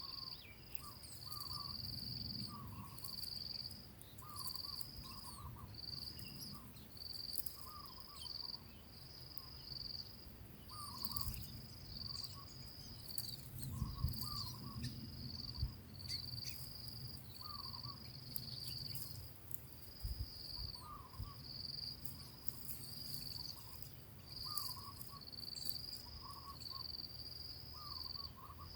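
A cricket trilling in a high, steady buzz broken into pulses of about a second with short gaps. Short, lower-pitched double notes repeat every couple of seconds alongside it.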